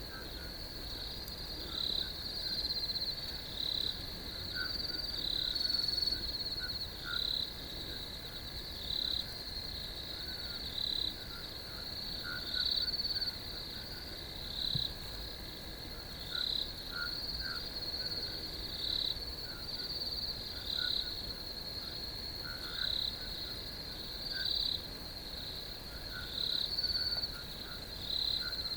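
Night chorus of crickets trilling steadily and high-pitched, with a louder call repeating about every second and a half and fainter chirps lower down.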